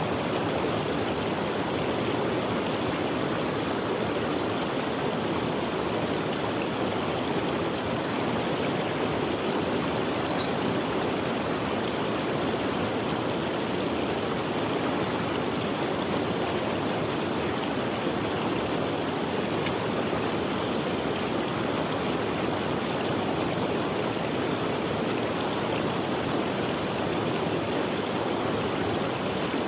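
Stream of running water flowing and splashing steadily.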